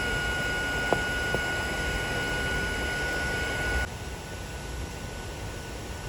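Steady hiss of heavy rain with a thin, steady high-pitched whine over it. Both drop in loudness about four seconds in.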